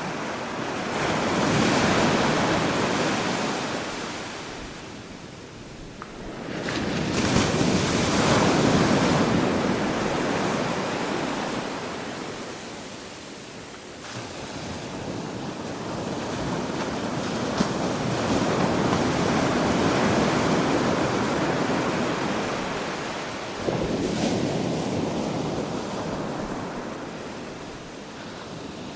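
Ocean waves breaking and washing up on a beach, in slow surges that swell and then fade, four times. The last surge comes in suddenly, a little after 23 seconds.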